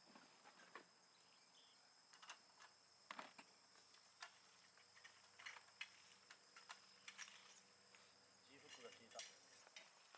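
Faint, steady high-pitched insect song, like crickets, with scattered faint clicks and knocks over it.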